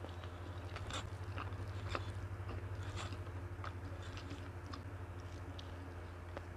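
Close-up chewing and biting of food, with irregular sharp crunches and wet mouth clicks, the strongest crunch about two seconds in. A steady low hum runs underneath.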